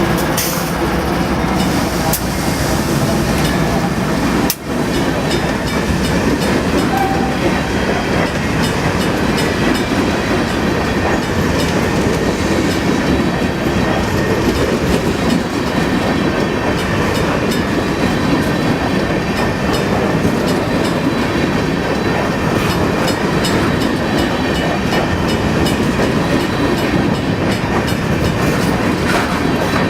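Freight train of hopper cars rolling past: a steady, loud rumble and rattle of steel wheels on the rails, with faint rhythmic clicking from the wheels over rail joints.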